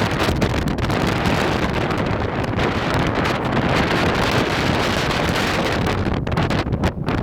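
Strong, gusty dust-storm wind buffeting the microphone, a loud rushing roar with heavy low rumble that rises and falls in gusts.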